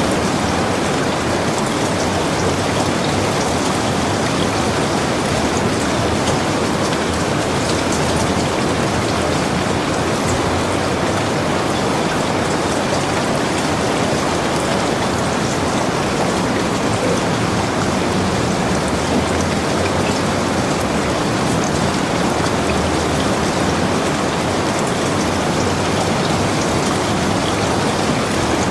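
Heavy rain falling steadily, a dense even hiss of rain with scattered drop ticks.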